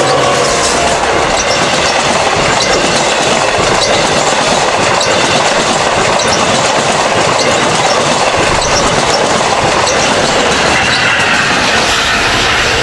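Eight-car Long Island Rail Road train with DM30AC locomotives running along the rails: a steady loud rush of wheels on track, with sharp clicks from the rail joints scattered through it.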